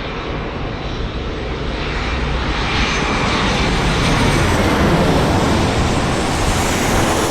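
Jet airliner's engines passing close, a loud roar with a faint high whine, building to a peak about four to five seconds in and then easing slightly.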